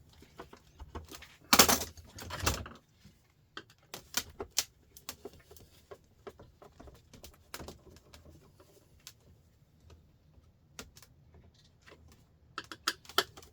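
Clicks, taps and knocks from an old sandwich maker being handled and taken apart, with two loud knocks about two seconds in and then scattered small clicks as the casing screws are undone.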